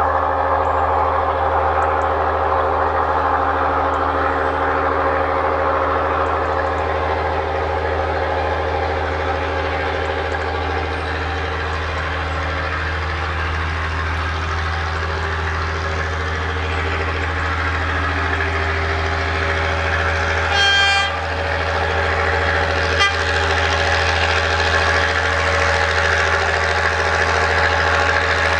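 Railway locomotive running with a steady mechanical hum and low rumble, and one short whistle toot about two-thirds of the way through, followed shortly by a single knock.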